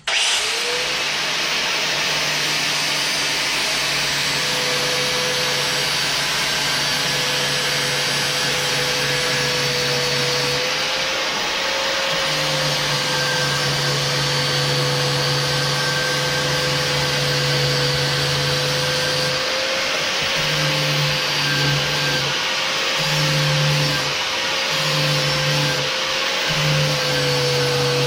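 A high-speed handheld electric power tool spins up with a quick rising whine, then runs steadily with a high whine while it works rust off the steel axe blade. A lower hum cuts in and out repeatedly in the second half, as the tool is pressed against the steel and lifted off.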